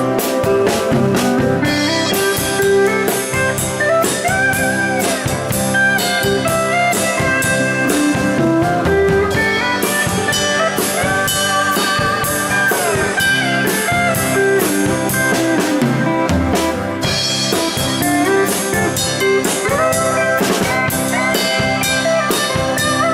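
Live rock band playing an instrumental passage: a lead guitar with bending notes over a drum kit and rhythm guitar.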